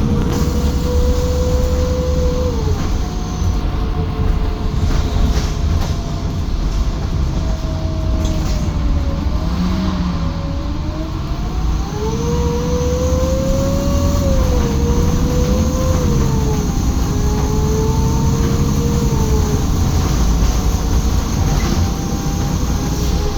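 Menarinibus Citymood 12 CNG city bus under way, with a heavy low engine rumble and a clear whine that rises and falls, dropping sharply a few times.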